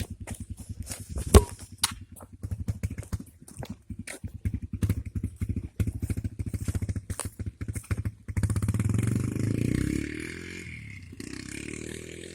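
Dirt bike engine idling with a rapid, uneven putter, with one sharp knock about a second and a half in. About eight seconds in the engine revs up for a couple of seconds, then drops back.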